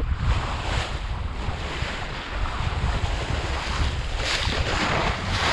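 Strong sea wind buffeting the microphone, a steady rumbling rush, with waves washing against the fishing boat that surge a couple of times.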